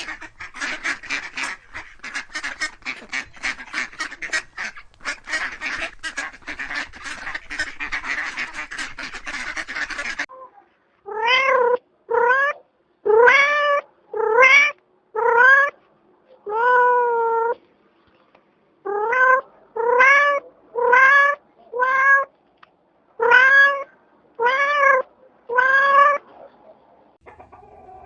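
Ducks quacking rapidly and continuously for about ten seconds, then a domestic cat meowing about a dozen times. Each meow lasts about a second and rises then falls in pitch.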